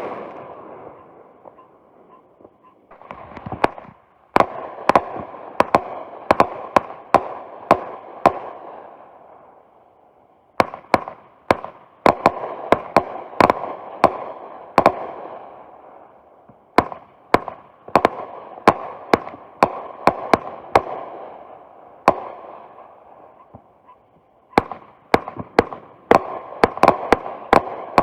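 Consumer fireworks going off in rapid volleys of sharp bangs with a hiss between them, in four runs separated by short lulls.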